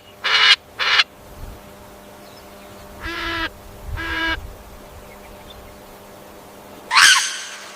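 Bird calls: two short calls in the first second, two evenly pitched calls of about half a second each around three and four seconds in, and a louder, sweeping call near the end.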